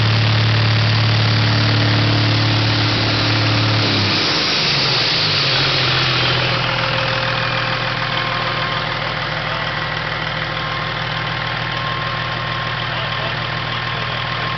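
Caterpillar 3406E inline-six turbo diesel running on its first startup. About four seconds in, the engine speed drops from a raised speed to a steady idle, and the turbocharger whine winds down over the next few seconds.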